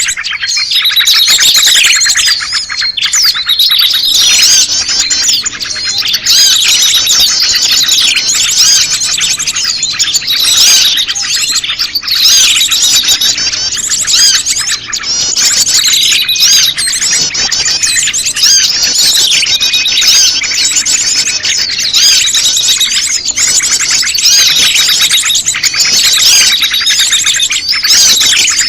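Bird-lure recording: prenjak lumut calls mixed with a dense chorus of many small birds chirping and twittering at once. The calls are high-pitched, fast and overlapping, and go on without a break.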